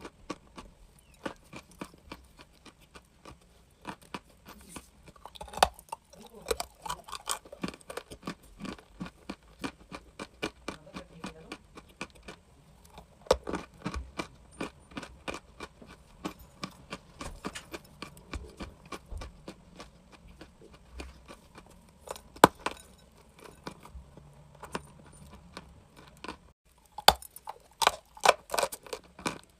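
Crunchy chalk crunching and crackling close to the microphone: rapid, irregular snaps several times a second, with a sharp louder snap about two-thirds of the way through and a cluster of loud crunches near the end.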